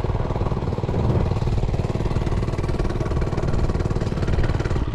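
Realtree RT100 mini bike's small single-cylinder four-stroke engine running at a steady speed, with a fast even putter.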